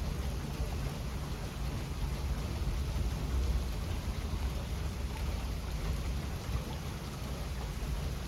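Steady rain falling, with a low rumble of thunder underneath that swells slightly about three seconds in.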